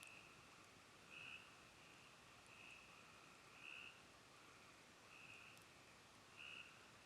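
Faint frog calls at night: short calls repeating unevenly about once a second, with a few faint clicks.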